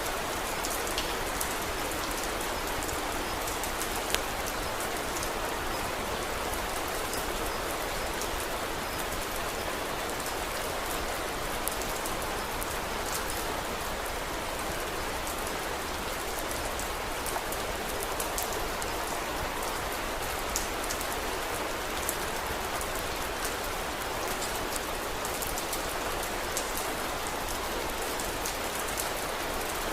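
Steady rain falling, an even hiss, with scattered sharp clicks a few times.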